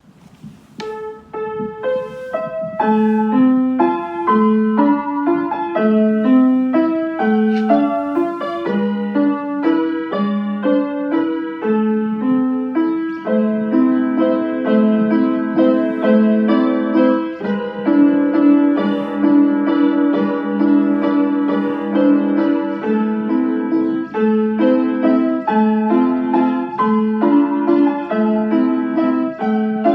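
Background piano music: a flowing line of single notes over chords, fading in during the first few seconds and then holding a steady level.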